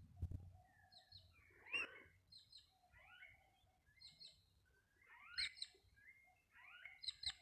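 Small birds chirping: bursts of quick, high chirps and short rising and falling whistles, loudest about two seconds in and again around five and seven seconds in.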